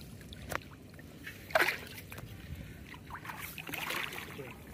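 Water sloshing and dripping as a gill net is handled in shallow water, with a few short sharp splashes, the loudest about a second and a half in.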